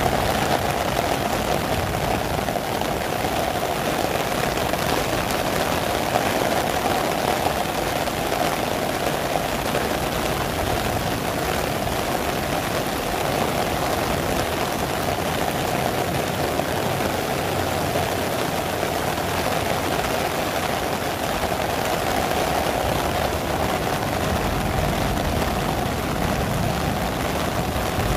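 Heavy tropical rain pouring down and splashing on paving and grass: a steady, dense hiss.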